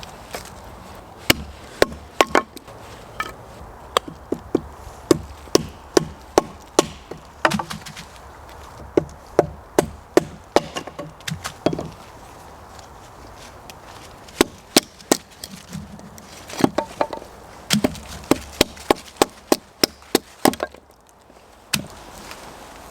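Wood being chopped with a blade: a long run of sharp, separate strikes, about one to two a second, coming in bursts with short pauses about halfway through and near the end.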